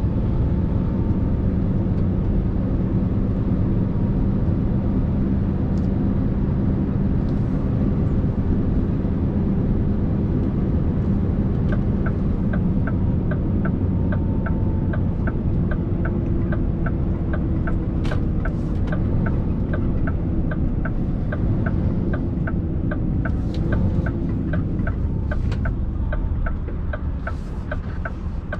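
Scania R650's 16-litre V8 diesel running with a steady low rumble. Partway through, a regular light ticking joins in, about twice a second.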